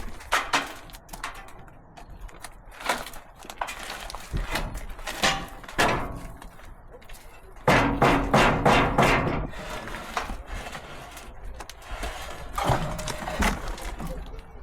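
Irregular wooden and metal knocks and thuds as the old wooden bed boards of a 1969 Chevy C20 pickup are worked loose. About halfway through comes a quick run of rapid strikes, the loudest part.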